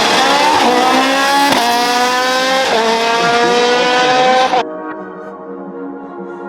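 Hill-climb race car engine under hard acceleration, climbing in pitch with breaks at the gear changes, then cutting off abruptly near the end; quieter synthesizer music follows.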